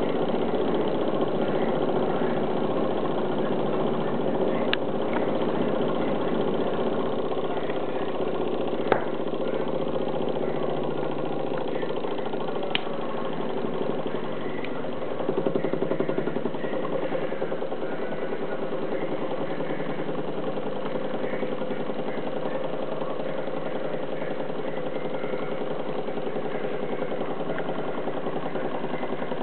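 Prototype Stirling engine running steadily, a fast, even mechanical clatter, with a few sharp clicks.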